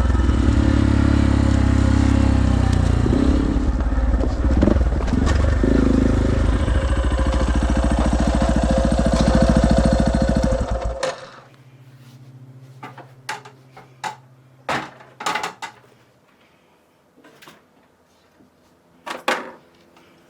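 Dirt bike engine running steadily, cutting off abruptly about eleven seconds in. After that, a faint low hum and a few scattered sharp knocks.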